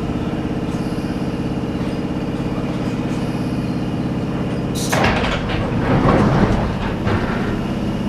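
London Underground 1973 Tube Stock train standing with a steady electrical hum. About five seconds in, its sliding doors open with a sudden hiss and rattle.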